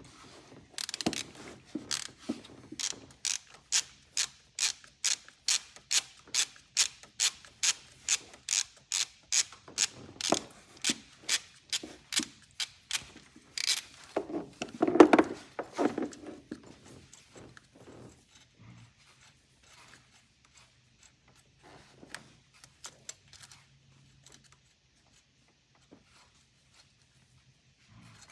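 Socket ratchet clicking in a steady run, about three clicks a second, as a 15 mm nut is backed off. About fifteen seconds in there is one louder knock, followed by a few scattered faint clicks.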